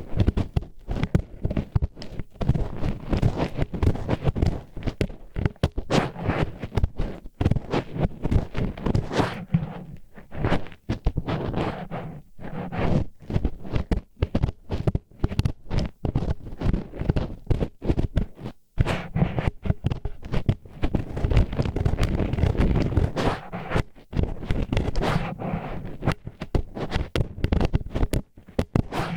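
Disposable wooden chopsticks used as an ear pick in close-up ASMR ear-cleaning: a dense, irregular run of grinding, scraping strokes against the ear wall, with a couple of brief pauses.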